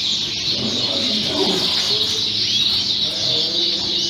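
A dense chorus of many Fife canaries singing and chirping at once, with overlapping high warbles and trills.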